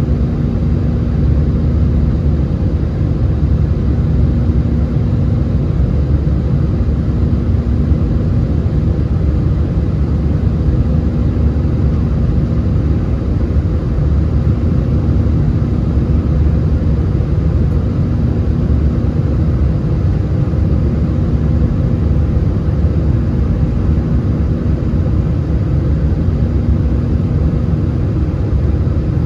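Airbus A320 airliner's jet engines and airflow, a loud steady low rumble with a faint hum that swells and fades every few seconds.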